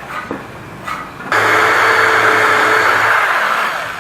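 A couple of light wooden knocks, then a handheld power tool motor starts abruptly about a second in, runs steadily for about two seconds and winds down near the end.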